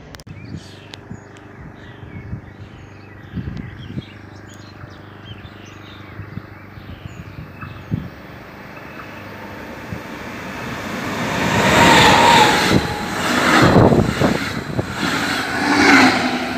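Birds chirping over a quiet background, then a regional passenger train approaching and passing close at speed. Its rush of noise builds from about ten seconds in and stays loud through the last few seconds.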